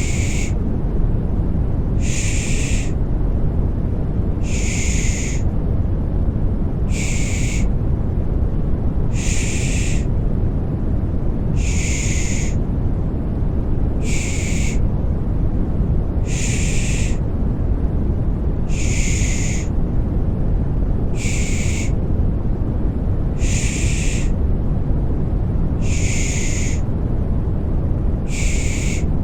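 Rhythmic baby-soothing shushing ('pış pış'): a short 'shh' just under a second long, repeated about every two and a half seconds over a steady, deep white-noise bed.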